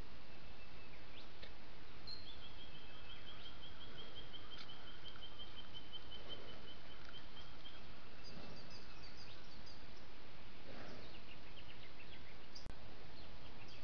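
Steady trail-camera hiss under birdsong: a long trill of evenly repeated high notes lasting about five seconds, followed by a few short chirps. Near the end the sound cuts out for an instant with a click.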